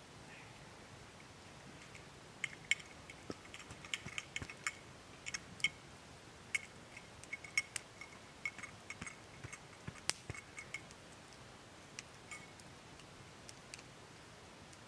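Irregular sharp ticks and clicks, thick between about two and eleven seconds in, with a few scattered ones after.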